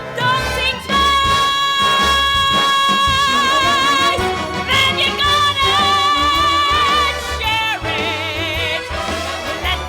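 Recorded musical-theatre song: a woman's voice sings long, high wordless notes with vibrato over a band, three held notes in a row, the last with a wide trill-like wobble.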